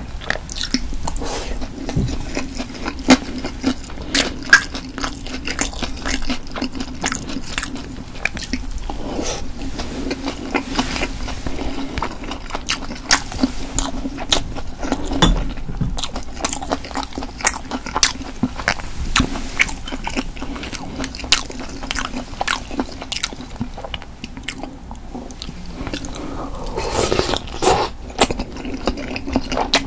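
Close-miked chewing of stir-fried pork cartilage, with many irregular sharp crunches as the gristle is bitten through.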